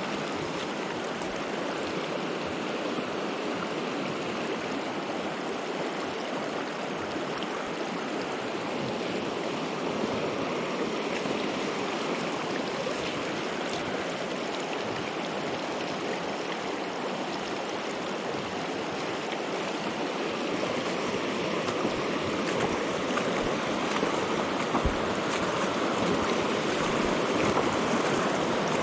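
Trout stream water rushing steadily, growing slightly louder toward the end.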